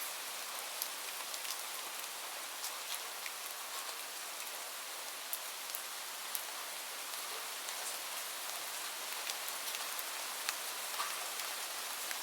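Steady rain: an even hiss with many scattered sharp drops ticking on a surface.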